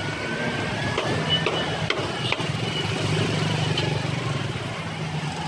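Steady low hum of a running engine, with a few sharp clicks and knocks in the first half.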